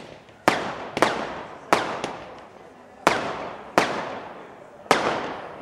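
Small consumer fireworks going off: about seven sharp bangs at uneven intervals, each trailing off in an echo.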